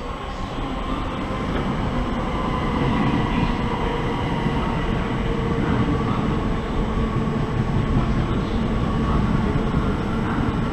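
Electric passenger trains running fast through a station close by: a steady rush of wheels on rail with a motor hum, building over the first couple of seconds and then holding.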